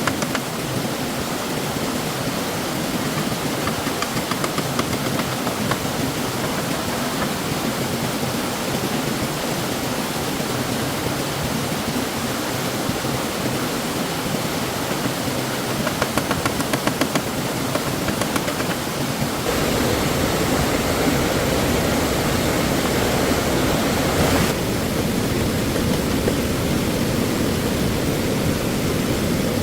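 Stream water rushing in a steady hiss, changing character abruptly twice, fuller and deeper about two-thirds of the way through, then duller soon after. A short run of light taps sounds over it a little past halfway.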